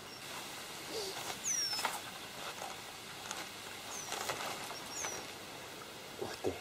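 Small birds calling in a reed marsh: a few short, high chirps that sweep downward, with faint high peeps between them. Light rustling clicks come in among them, a pair near the end.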